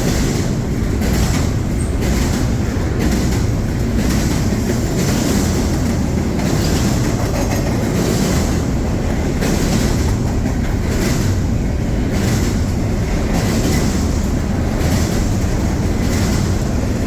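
CSX intermodal freight train rolling past at close range: a steady loud rumble of wheels on rail, with repeated clicks as the wheels cross rail joints.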